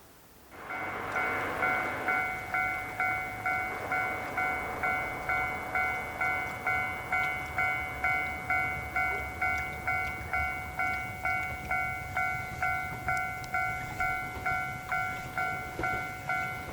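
Japanese railway level-crossing warning bell starting to ring about a second in, a ringing electronic bell tone repeating about twice a second, signalling an approaching train.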